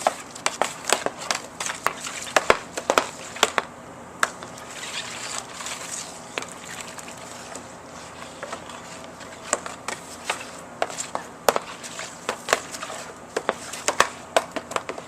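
Hockey stick and puck on a wet outdoor surface: quick, irregular clacks of the stick blade on the puck and ground, in one run during the first few seconds and another from about ten seconds in.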